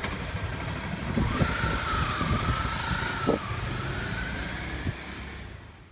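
Motorcycle engine running with an uneven low throb and a faint whine that rises and falls partway through, the sound fading away near the end.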